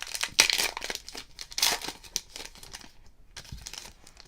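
Trading-card pack wrapper crinkling and tearing as a pack of football cards is opened, in several loud rustling bursts.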